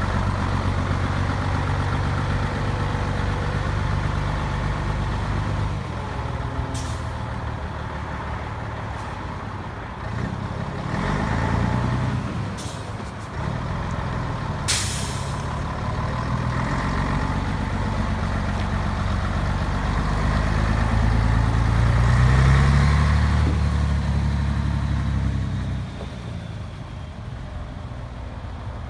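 Scania 113H truck's 11-litre six-cylinder diesel running, its engine note rising twice as it is revved or pulls away. Short hisses of released air come about three times, the strongest about halfway through.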